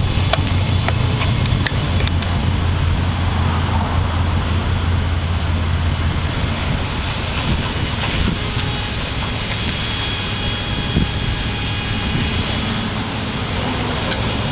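Engine of a Cobra replica built on a Corvette chassis and drivetrain, running as the car pulls away, its low hum steady at first and fading after about halfway. A few light clicks in the first couple of seconds.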